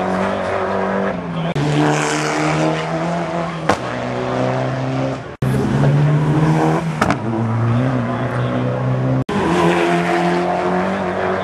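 Rally car engines running hard, their note holding and then stepping up and down in pitch, with tyre and gravel hiss. The sound breaks off abruptly twice where one short clip cuts to the next.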